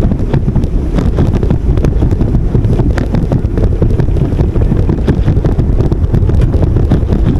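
Wind buffeting the microphone of a camera on a moving bicycle, a loud steady low rumble, with scattered clicks and knocks from the bike and road.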